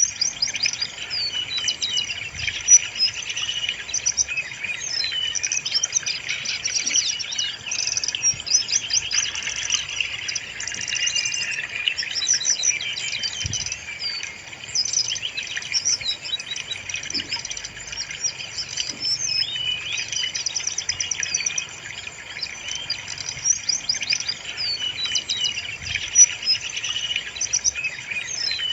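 Brown-chested jungle flycatcher song: a dense, continuous run of high chirps, whistles and trills, with phrases overlapping and no pauses.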